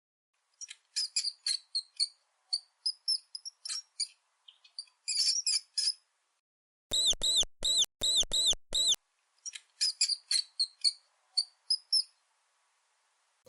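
Mouse squeaking: clusters of short, high-pitched squeaks, with a run of six louder, longer squeaks about seven seconds in, each rising and then falling in pitch.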